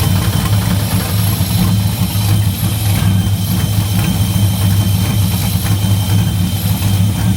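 Car engine fitted with a roller cam, idling steadily just after starting while its ignition timing is being set, with an uneven, pulsing note. It is not yet running smooth.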